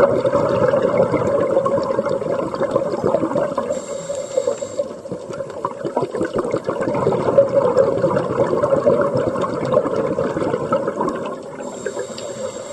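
Underwater scuba breathing: a long, churning rush of exhaled bubbles from the regulator, broken by a short hiss of inhalation about four seconds in and again near the end.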